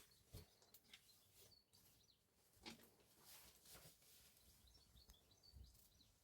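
Near silence: faint outdoor ambience with a few soft clicks and faint high bird chirps.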